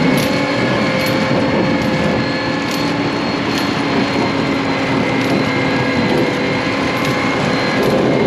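A large vehicle's engine running steadily under a loud rushing noise, with a faint regular ticking.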